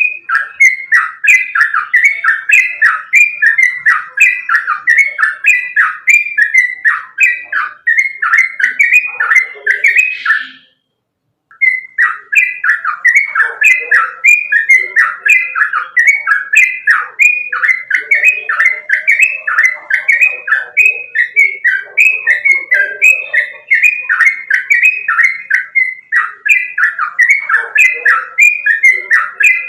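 Yellow-vented bulbul (trucukan) singing: a loud, fast, unbroken run of short chirping notes, about two a second, that breaks off for about a second near the middle and then resumes.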